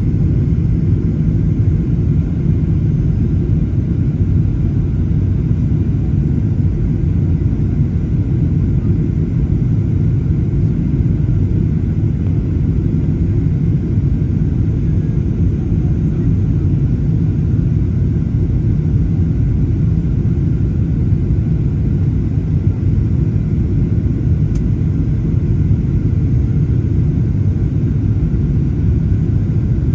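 Steady low rumble of a Boeing 737-800's CFM56 jet engines heard inside the passenger cabin, even and unchanging throughout.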